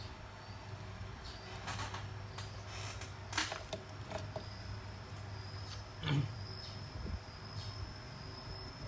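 Soft clicks, taps and scrapes of small tools being handled, over a steady low hum. A faint high whine comes in about halfway through.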